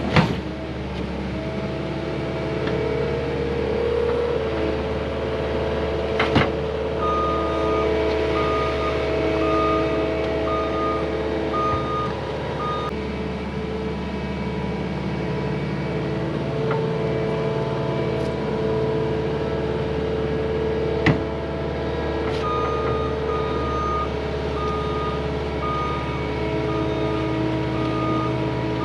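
Heavy machine's engine running steadily while its reversing alarm beeps in two runs, one a few seconds in and one near the end, with a few sharp clanks.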